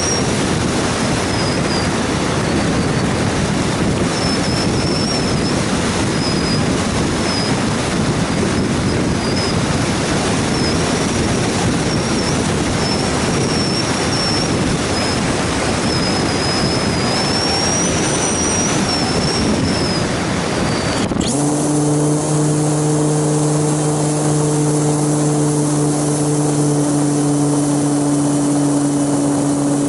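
Heavy wind buffeting an action camera's microphone during flight, with a thin, wavering high whine above it. About 21 seconds in the sound cuts abruptly to a steady low hum made of a few even tones.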